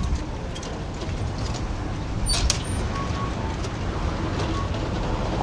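Outdoor town ambience with a steady low rumble, scattered light clicks and a brief high chirp a little over two seconds in.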